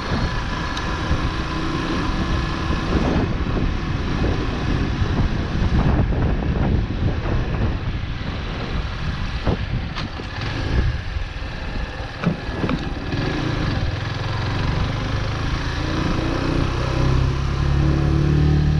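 Chopper Road 150cc motorcycle engine running while riding, mixed with rushing road noise; near the end the engine settles into a steadier, even note.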